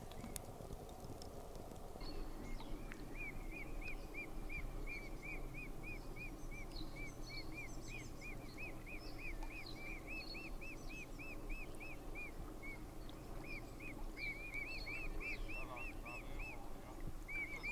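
A bird calling outdoors, a long run of short rising-and-falling notes repeated about three times a second, with a few other small birds chirping higher up.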